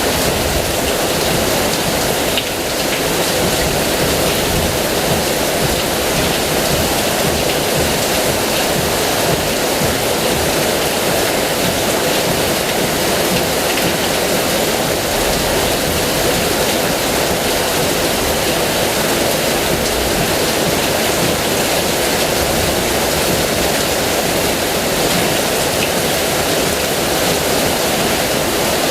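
Heavy rain pouring down steadily, a dense even hiss of rainfall.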